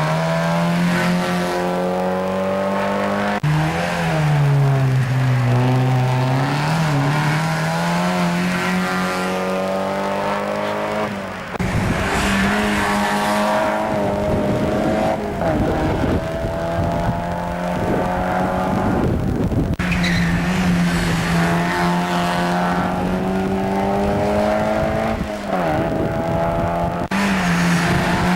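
Mazda MX-5 race car engines running hard at full throttle. The engine note climbs steadily and drops back several times as the cars shift up through the gears. The sound changes abruptly a few times, and gets rougher and noisier in the middle.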